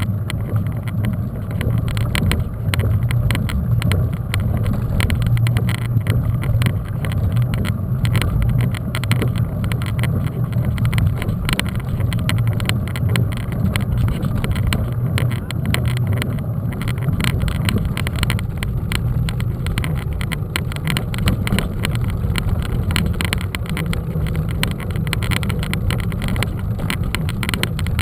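Mountain bike being ridden, heard through a camera microphone: steady low wind rumble on the mic with tyre noise over the ground.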